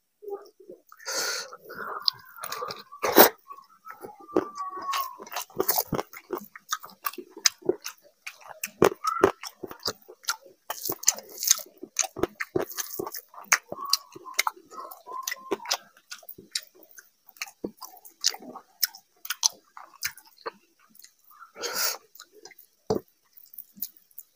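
Close-miked eating: a man chewing a mouthful of rice and fish curry eaten by hand, with wet smacks and many short sharp clicks, the loudest about three seconds in.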